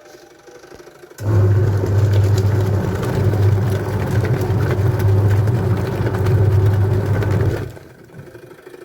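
West Point twin-tub washing machine's electric motor switching on about a second in and running with a steady loud hum while the tub spins, then cutting out near the end.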